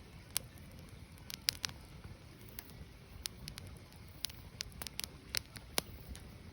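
Wood fire burning: irregular sharp snaps and pops, a few a second, over a low steady rumble of the flames.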